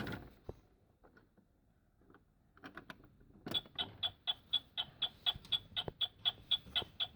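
Electronic sound effect of a toy oven after a few clicks of its button: a timer ticking evenly, about four ticks a second, starting about halfway through.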